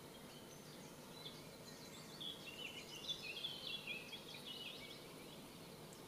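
A songbird singing one long phrase of quick high notes, lasting about three seconds, beginning about a second and a half in. Under it is a faint, steady low background noise.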